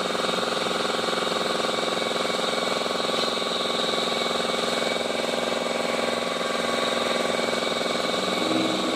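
Honda City i-DSI car running steadily, a continuous engine drone with several steady higher tones over it.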